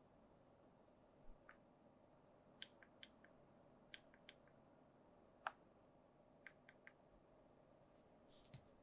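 Sparse light clicks and taps, about fifteen of them at uneven intervals, with one sharper click about five and a half seconds in, over faint room tone.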